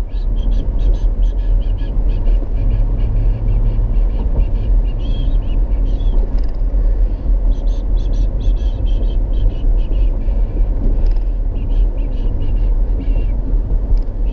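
Steady road and engine rumble inside a moving car. Many short, high-pitched chirps or squeaks come irregularly on top of it.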